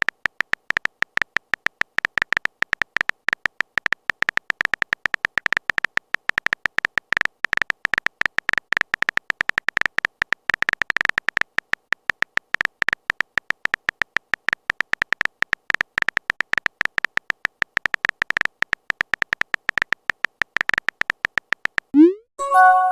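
Phone-keyboard typing sound effect: a fast, unbroken stream of tiny clicks, each with a high beep. Near the end a short rising swoosh and a chime sound as a message is sent or arrives.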